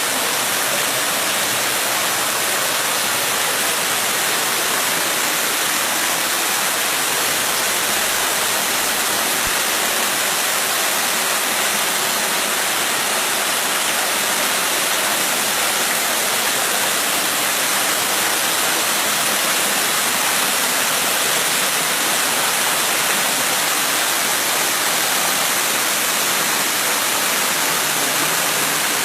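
Bigăr waterfall: falling water making a steady, unbroken rush with a strong hiss.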